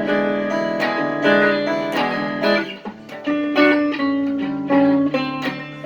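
Guitar playing the chord progression of the song's bridge, plucked notes ringing over a changing bass line, starting on an E7 chord.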